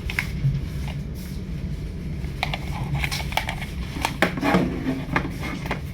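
Steady low rumble inside a passenger train carriage, with a run of sharp clicks and knocks from fittings being handled over the second half.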